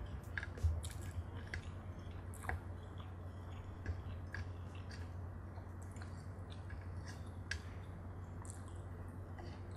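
A person chewing food close to the microphone, with scattered short wet mouth clicks and soft crunches, over a steady low hum.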